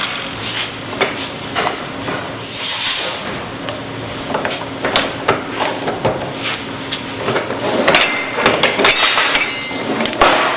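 Irregular metallic clinks and knocks of a hydraulic field riveter and its steel parts being handled after a rivet has been forged over, with a brief hiss about two and a half seconds in. The knocks come more thickly near the end.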